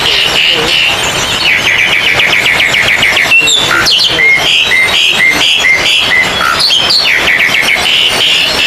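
Oriental magpie-robins (kacer) singing over one another in a dense chorus of fast trilled runs and short repeated notes, with quick whistled glides in the middle.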